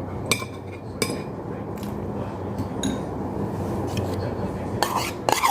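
Cutlery clinking against dishes while eating: scattered light clinks about a second apart, then a quicker cluster near the end, over a steady low hum.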